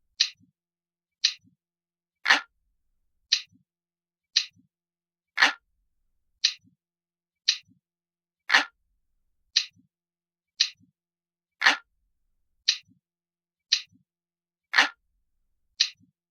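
Ticking clock sound effect: a sharp tick about once a second, every third tick louder, each followed by a faint low click.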